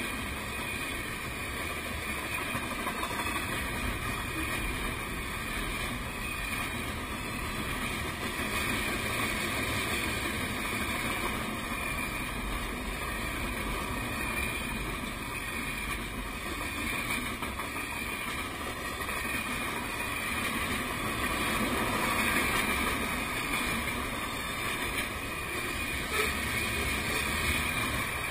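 Freight cars rolling past close by: a steady rushing rumble of steel wheels on the rails, with one louder knock near the end.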